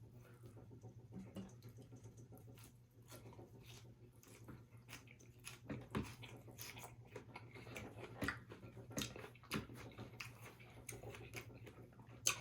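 A person chewing and biting into food, with faint irregular clicks and crunches of mouth sounds, over a steady low hum.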